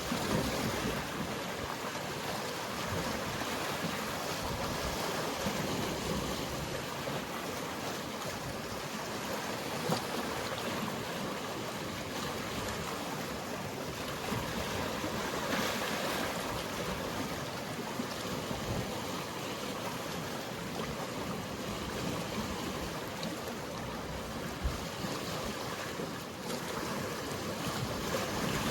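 Sea waves washing against the shore in a steady rush of surf, rising and falling slightly in loudness, with a single brief tap about ten seconds in.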